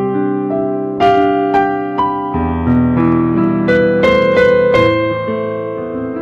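Slow instrumental keyboard piano music: sustained chords with a new note or chord struck about once a second, each left to ring.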